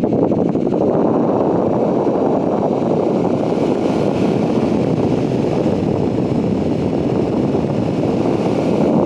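Duplex cordless electric fan running, a steady rush of air with no pauses.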